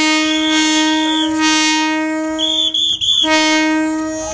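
Train horn sounding one long, steady blast that breaks off briefly about three seconds in and then starts again.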